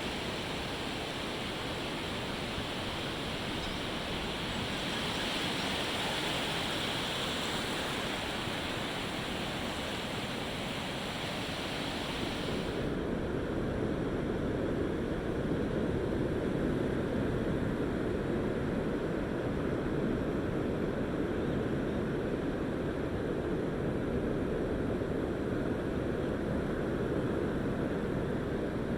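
Ocean surf washing onto the beach, a steady rush of noise. About 13 seconds in, the hiss thins and the sound turns deeper.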